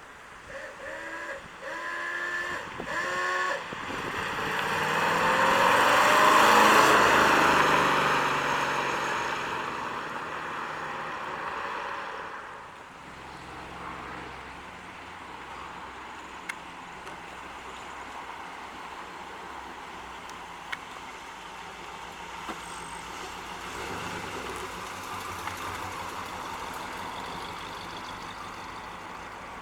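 Chevrolet 350 V8 through a deep exhaust, pulling up through the gears, then passing close by: loudest about six to seven seconds in, with the pitch dropping as it goes past. It then fades to a quieter steady engine sound.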